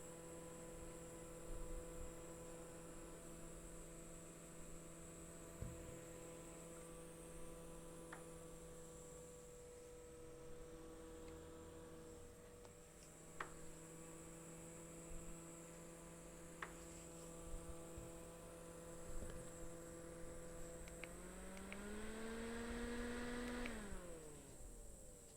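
Xiaomi Miwaing F9 mini desk fan's small motor running with a faint steady hum and a few soft clicks. Near the end it rises in pitch for about two seconds, then falls quickly as it winds down.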